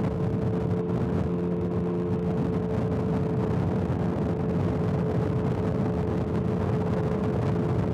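Motorcycle engine running steadily at highway cruising speed, a constant drone with an even rushing noise beneath it.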